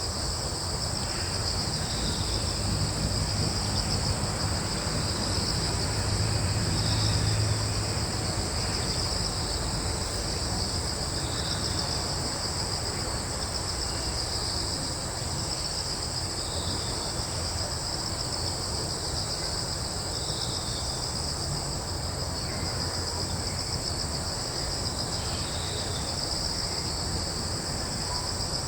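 Crickets trilling steadily in two high, unbroken bands, with a fainter chirp recurring every few seconds. Beneath them a low rumble that swells for a few seconds near the start.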